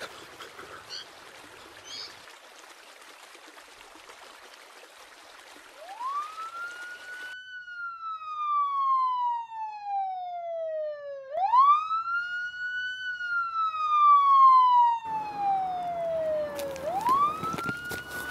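Police siren wailing, starting about six seconds in. Each cycle climbs quickly and then slides slowly down over about five seconds, with three climbs in all. A faint hiss comes before it and cuts off suddenly.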